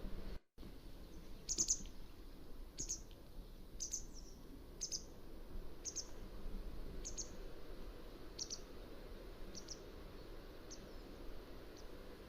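Mountain wagtail giving a series of short, high calls, about one a second, growing fainter toward the end, over a steady background hiss.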